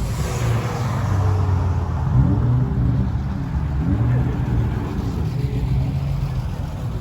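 Car engines running at low rpm, with one revving up briefly a couple of times, about two and four seconds in.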